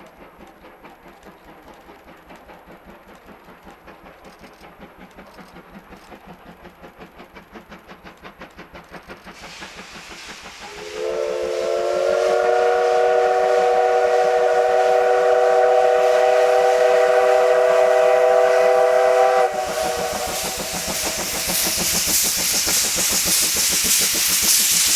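A steam locomotive approaches with a regular beat that grows louder. About eleven seconds in, it sounds a long chime whistle of several notes together, with a slight upward slide at the start, held for about eight seconds. The whistle cuts off and loud hissing follows.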